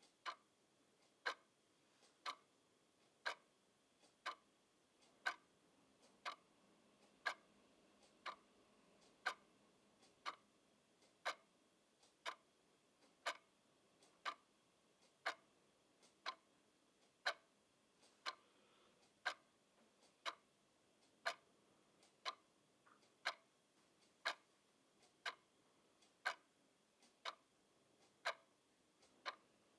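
Clock ticking steadily about once a second, the strokes alternating louder and softer in a tick-tock pattern.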